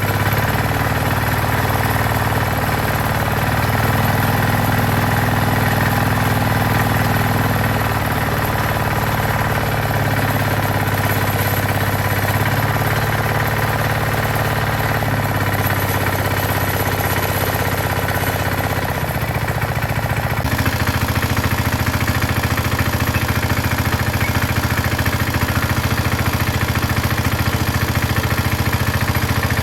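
Walk-behind tiller's engine running steadily, its note shifting slightly about twenty seconds in.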